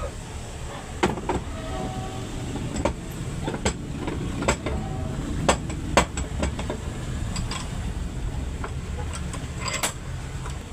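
Diesel truck engine running with a steady low rumble. Sharp, irregular metallic clicks and knocks sound over it, about eight in all.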